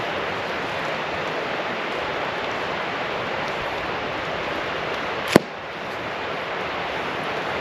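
Steady rushing noise, like running water or wind, with one sharp click a little past halfway through.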